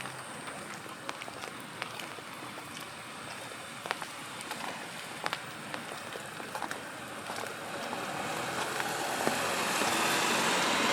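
Steady rain with scattered close raindrop ticks. From about two-thirds of the way in, a passing car's tyres hiss on the wet road, swelling louder near the end.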